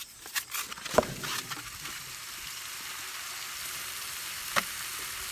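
Hamburger meat starting to sizzle on an oiled steel Blackstone flat-top griddle, with a run of knocks and scrapes in the first second or so and a sharp knock about a second in and another near the end, settling into a steady sizzle.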